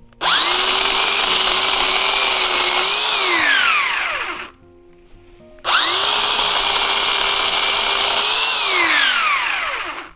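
Corded electric chainsaw run in two bursts of about four seconds while cutting a dead branch. Each burst starts at once into a steady motor whine, rises slightly in pitch, then winds down in a falling glide as the trigger is released.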